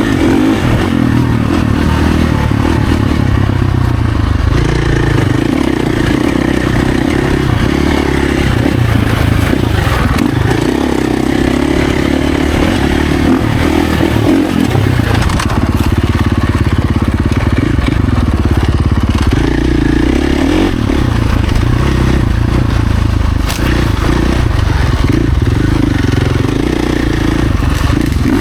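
Husqvarna FC450's single-cylinder four-stroke dirt-bike engine running hard on a trail ride, its pitch repeatedly rising and falling as the throttle is opened and rolled off.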